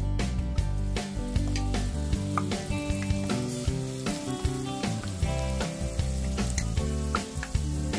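Browned boiled potatoes sizzling as they fry in a little hot oil, a metal spoon stirring and lifting them out, over background music with a steady beat.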